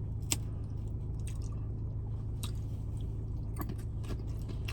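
Close-miked chewing of loaded beef nachos, wet and squishy, with a few sharp crunches or mouth clicks, the sharpest just after the start. A steady low hum runs underneath.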